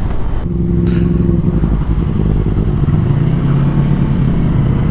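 Sportbike engine running at low, fairly steady revs while riding, the pitch easing down a little partway through.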